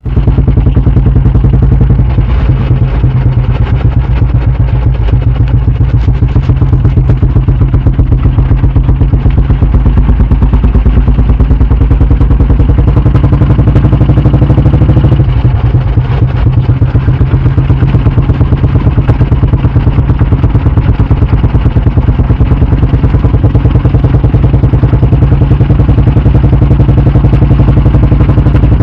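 Royal Enfield Bullet 350 single-cylinder engine idling with a steady, even exhaust beat close to the exhaust, dipping briefly about halfway through.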